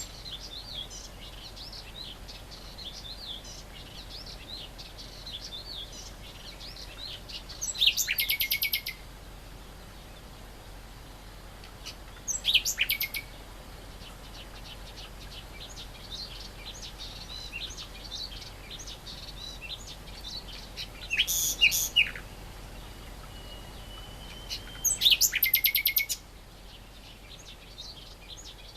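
Great reed warbler singing: four loud, harsh phrases of rapidly repeated notes, each about a second long, with steady faint high twittering between them.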